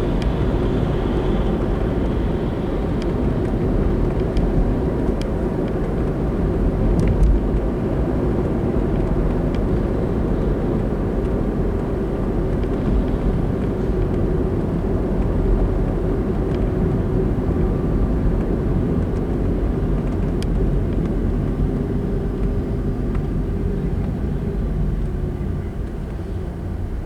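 A car driving on a road: steady tyre and engine rumble that eases off near the end as the car slows.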